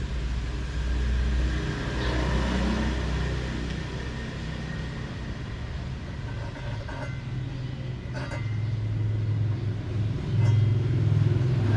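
Bosch GTS 10 XC table saw running with a steady low hum and a faint high whine, with a few light knocks in the second half.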